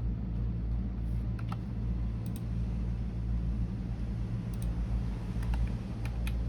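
Computer keyboard typing slowed to a few scattered keystrokes, about a dozen sharp clicks spread unevenly with a cluster near the end, over a steady low hum.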